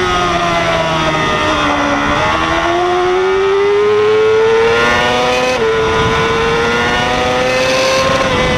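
Yamaha YZF-R6 600cc inline-four race bike heard onboard: the engine note falls for about two seconds as the bike slows into a corner, then climbs steadily as it accelerates out, with a short dip for an upshift a little past halfway, over rushing wind noise.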